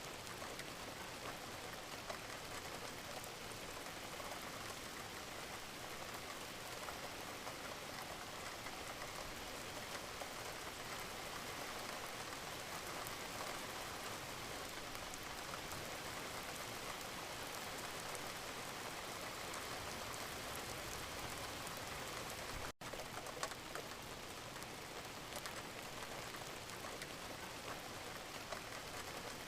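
Steady rain falling, an even hiss of many drops with small individual drop ticks through it. The sound cuts out for a split second about three-quarters of the way through.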